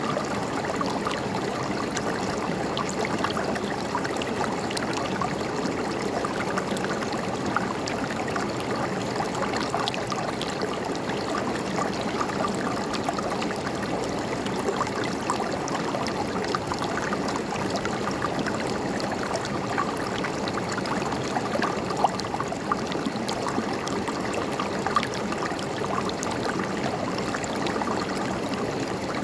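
A river flowing and gurgling with a steady rushing sound, with small splashes and bubbling flecking through it.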